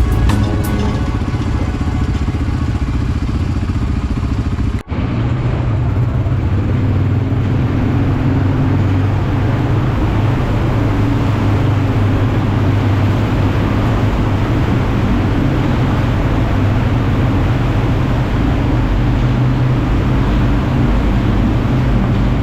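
Quad bike (ATV) engine running steadily under way. Music sits over it in the first few seconds, and the sound drops out for a moment about five seconds in.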